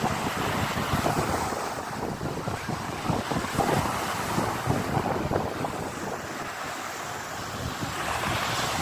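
Sea waves washing and breaking on the shore in a steady, irregular surge, with wind buffeting the microphone.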